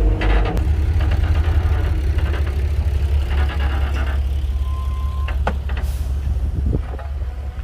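Komatsu D58P bulldozer's diesel engine running steadily with a low rumble. A few sharp metallic clanks come about five and a half and seven seconds in.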